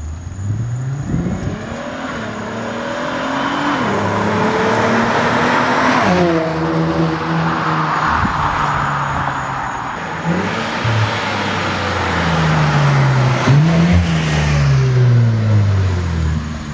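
Infiniti Q50 3.0t twin-turbo V6 with a new Stillen exhaust, accelerating hard. The exhaust note rises in pitch and drops back at each gear change, several times over.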